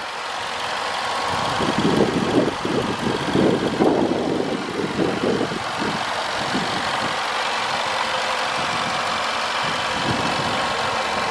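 Range Rover Sport SVR's 5-litre supercharged V8 idling, growing louder over the first couple of seconds, with an uneven pulsing low hum before it settles into a steady run.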